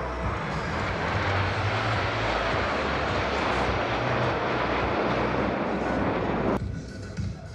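Jet noise from Black Eagles T-50B aerobatic jets flying past: a loud rushing roar that swells over the first few seconds and holds, then cuts off abruptly about six and a half seconds in.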